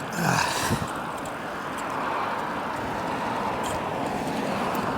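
Steady road traffic noise on a busy city street, with a passing vehicle whose pitch drops about half a second in.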